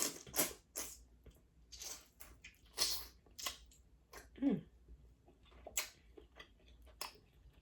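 Close-miked eating: wet chewing and mouth smacks in irregular sharp clicks, with a short hummed "mm" about four and a half seconds in.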